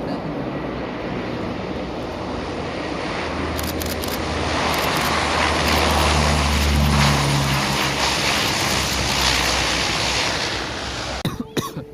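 Aircraft flying past: a broad engine rush with a low rumble that swells to a peak about halfway through and fades away again. A few sharp clicks near the end.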